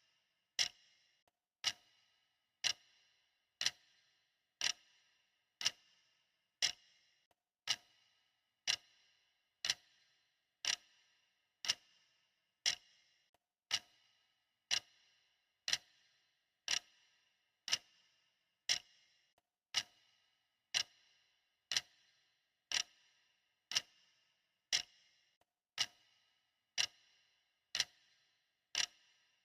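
Clock ticking steadily, about one tick a second, each tick a sharp click with a short ring.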